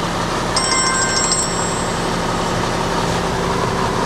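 The Mitsubishi diesel engine of a 1993 Kato excavator running steadily. A brief high-pitched whine sounds over it from about half a second to a second and a half in.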